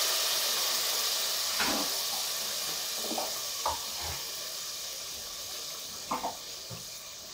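Tomato masala frying in ghee in a pot, a steady sizzle that fades gradually as the gas flame is turned low. A few faint knocks are heard at intervals.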